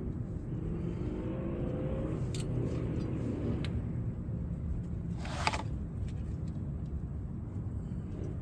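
Steady low rumble of a motor vehicle, with a faint rising engine note about a second or two in. A few light clicks and a short hiss about five seconds in.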